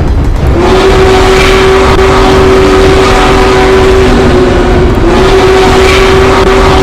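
Loud, distorted rumble of a train with a steady horn tone held over it, breaking off briefly about five seconds in and then sounding again.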